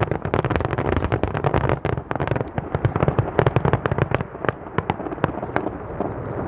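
Fireworks going off in a rapid barrage, many sharp bangs and crackles a second over a low rumble. The bangs thin out toward the end, as the closing finale barrage winds down.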